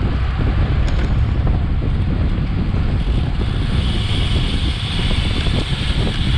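Wind buffeting an action camera's microphone on a bicycle at racing speed, a steady loud rumble. About three seconds in a higher steady hiss or buzz joins it.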